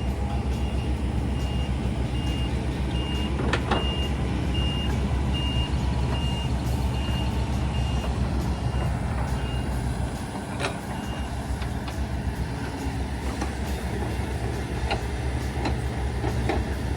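Heavy diesel machine running steadily with its backup alarm beeping at an even pace, about two to three beeps a second, which stops about two-thirds of the way through. A few sharp metal knocks sound over the engine.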